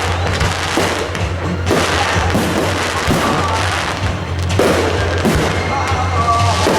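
Consumer fireworks going off in a string of bangs and crackles at irregular intervals, over music playing in the background.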